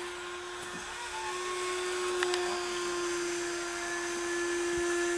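Small model engine buzzing steadily at a constant high pitch, with a brief click a little over two seconds in.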